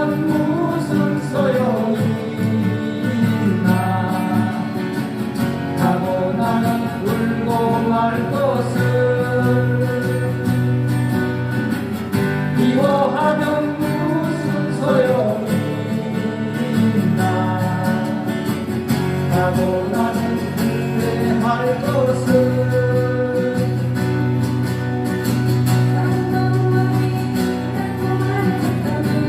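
Acoustic guitars strumming a song, accompanying a singer.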